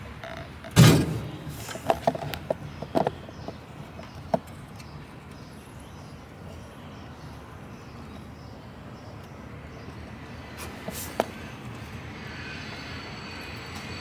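One loud knock about a second in, then a few lighter clicks and taps, and one more click later on. These are the sounds of tools and small parts being handled during work on a riding mower's carburetor and throttle linkage.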